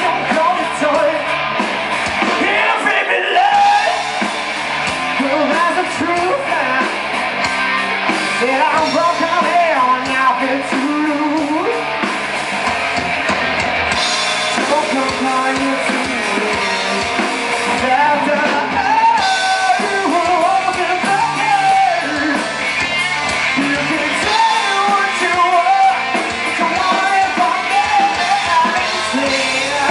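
Live rock band playing, a vocalist singing over electric guitars and a full band.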